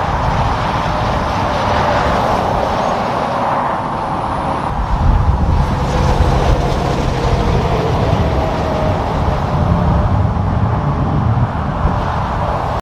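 Road traffic noise, then from about five seconds in the deep diesel engine of a Kenworth T680 semi truck grows louder as it drives past close by.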